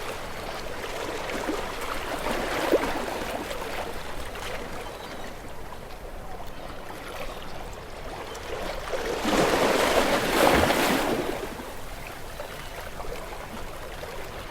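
Small waves breaking gently on a beach shore, a steady wash with a louder wave rolling in and draining back about nine to eleven seconds in.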